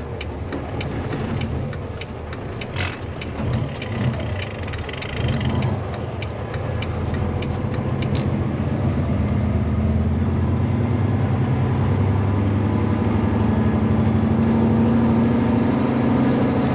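Heavy truck's diesel engine running as the tractor-trailer is driven, heard from inside the cab; from about nine seconds in the engine note rises slowly as it pulls harder. Two brief clicks come about three and eight seconds in.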